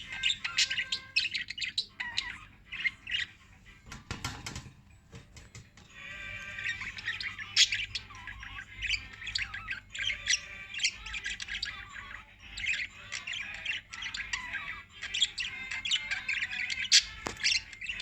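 Several small pet parrots chirping and squawking in quick, overlapping calls, with a short lull about four seconds in.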